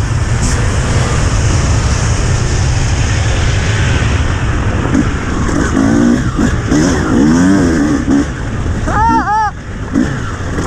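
Enduro motorcycle engine running as it is ridden fast over a gravel track, under a steady low rush of wind on the helmet camera. In the second half the engine pitch rises and falls repeatedly with throttle changes, and near the end there are two brief higher rising-and-falling rev tones.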